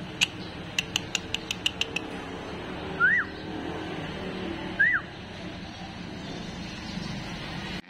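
A quick run of about eight sharp clicks, then two short bird-like chirps, each rising and falling, about two seconds apart, over steady background noise.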